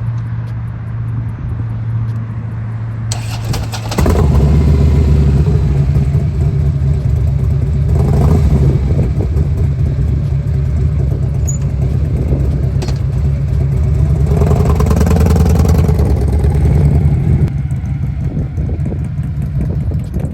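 Harley-Davidson V-twin motorcycle engine running at low speed during slow parking-lot riding. It gets louder about four seconds in and eases off near the end.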